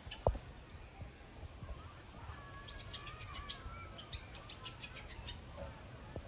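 Small aviary birds chirping: a rapid run of short, high chirps from about two and a half seconds in, over softer wavering calls. A single thump just after the start is the loudest sound.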